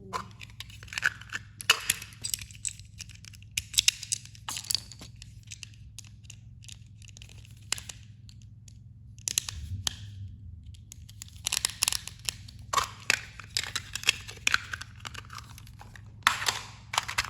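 Small plastic toy train engines being handled: scattered clicks, knocks and crinkly rustling, with a quieter stretch a little before the middle.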